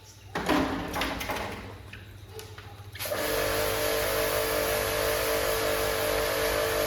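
A motor-driven machine running with a steady whine over a hiss, starting up again about three seconds in. Before that come a few knocks and light clatter.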